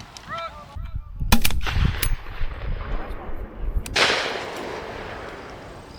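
Shotgun shots fired at doves, with sharp reports about a second and a half in and again at about two seconds. Near four seconds a longer rush of noise sets in and fades away slowly.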